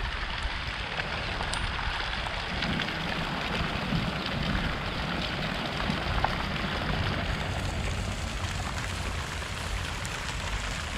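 Light rain falling steadily, a constant hiss of drops with a few faint pattering ticks.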